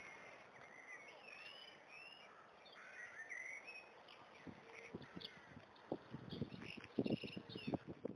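Birds chirping and singing in many short whistled phrases over a faint steady hiss of background noise, with a few low thumps in the second half.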